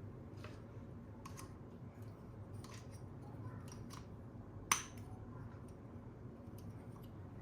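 Scattered small clicks and taps of toys and packaging being handled, with one sharper, louder click a little past halfway.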